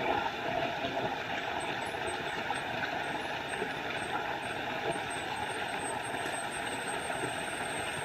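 Small forest waterfall running with a steady rush of water.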